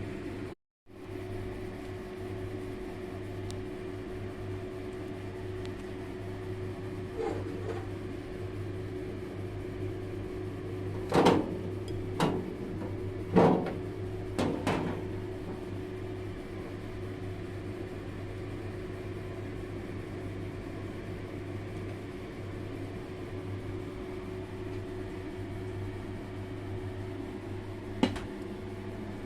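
A kitchen appliance running with a steady hum, cut off for a moment near the start; a few sharp knocks and clatters come about halfway through, and one more near the end.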